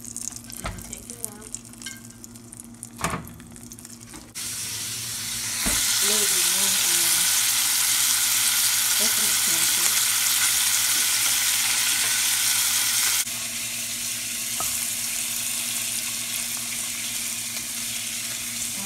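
Bacon and eggs frying in a pan. A few knocks of a utensil in the pan come first; about four seconds in, a loud sizzle starts suddenly. It is loudest in the middle while strips of bacon fry, and drops a little but keeps on after that.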